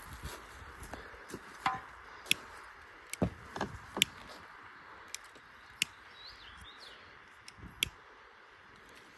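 Sharp, irregular woody knocks and cracks, about nine spread over several seconds: firewood being prepared for a campfire.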